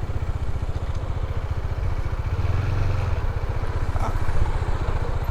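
Motorcycle engine running steadily while riding, a low rumble with fast, even pulsing.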